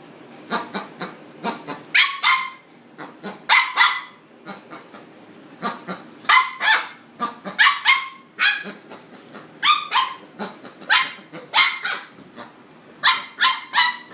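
Boxer dog barking at a wild boar, again and again, often two or three barks in quick succession.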